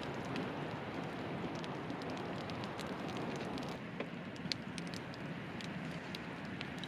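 Campfire crackling: a steady hiss with scattered sharp pops and snaps, the hiss easing a little just past halfway.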